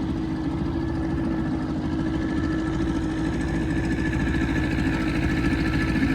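Boat motor running steadily, moving the fishing boat to another spot.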